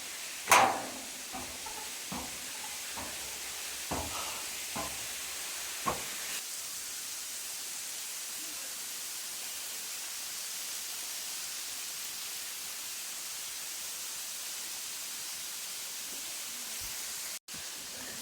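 Waterfall rushing as a steady hiss, with a few sharp knocks in the first six seconds, the loudest about half a second in. The sound cuts out for an instant near the end.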